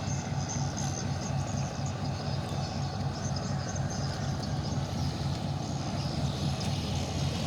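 Tugboat's diesel engine running at a steady, low drone.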